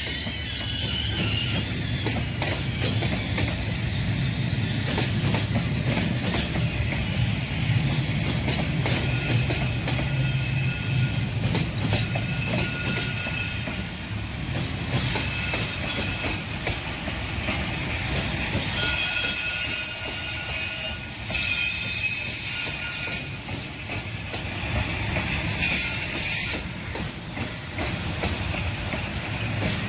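A train hauled by a D19E diesel-electric locomotive rolling past, with its wheels squealing on the rails and clattering over the track over a steady low drone. Short bursts of high hiss and squeal come and go through the passage.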